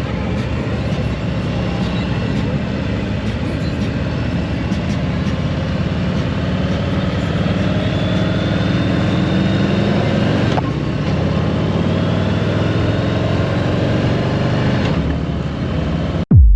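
Harley-Davidson motorcycle's V-twin engine running steadily while riding.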